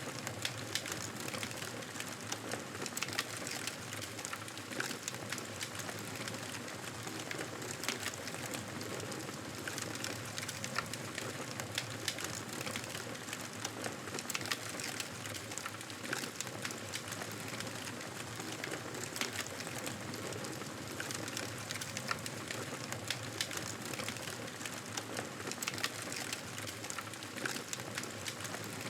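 Wood fire crackling steadily in a fireplace: a constant soft hiss broken by many small, irregular snaps and pops.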